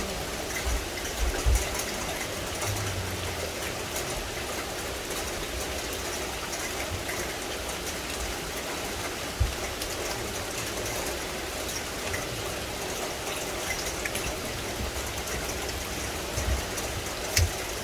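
Steady rain falling on forest vegetation, an even hiss of countless drops, with a few dull low thumps scattered through it.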